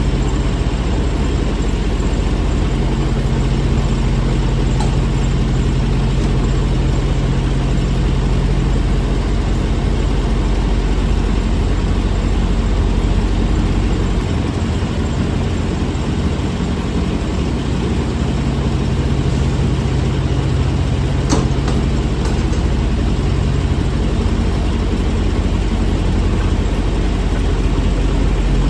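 Semi truck's diesel engine running steadily, with one sharp click about three quarters of the way through.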